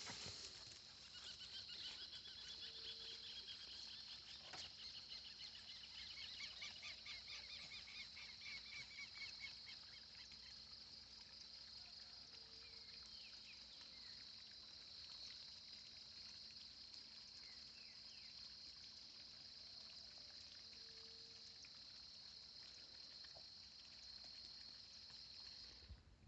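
Near silence: faint outdoor ambience with a steady high-pitched insect drone and, for the first ten seconds or so, faint rapid chirping; a soft short low note sounds three times.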